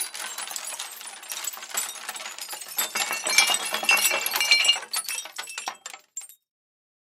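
Breaking glass: a long, dense run of shards clinking and tinkling for about six seconds. It builds to its loudest ringing clinks a little past the middle, then thins out to a few last pieces near the end.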